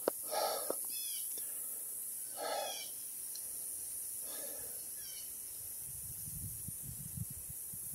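Faint bird calls: a few short chirps and three soft lower calls about two seconds apart, over a steady high hiss. A low rumble comes near the end.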